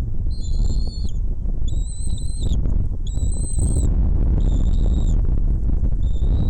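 A bird calling: about five long, steady, high-pitched whistled notes in a row, each just under a second long, over a loud, steady low rumble.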